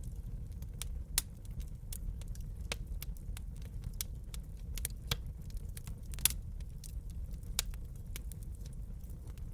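Wood fire crackling in a fireplace: irregular sharp pops and snaps, a handful of them louder, over a steady low rumble.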